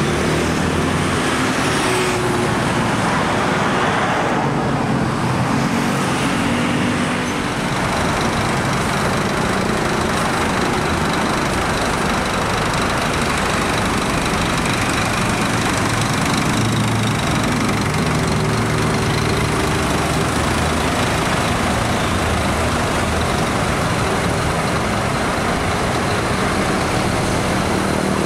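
Scania K410 iB double-decker coach's diesel engine pulling away, turning and driving off, mixed with passing road traffic.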